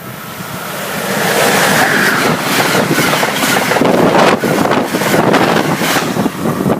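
Train passing close by: loud rushing and clattering that builds over about the first second and a half, then holds with rapid irregular knocks.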